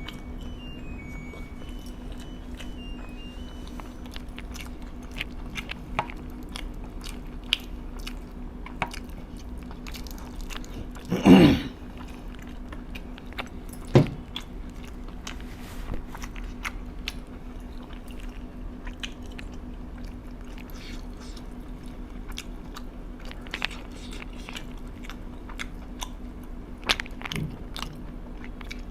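A person eating close to the microphone: chewing and biting with many short crunchy, wet clicks and smacks, over a steady low hum. About eleven seconds in there is a brief louder sound, and a sharp loud click a few seconds later.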